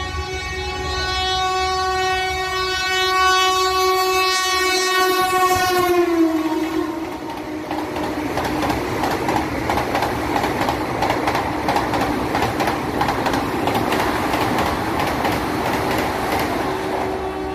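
Vande Bharat electric express train sounding a long multi-note horn that drops in pitch about six seconds in as the train passes, followed by the rushing clatter of its coaches' wheels over rail joints.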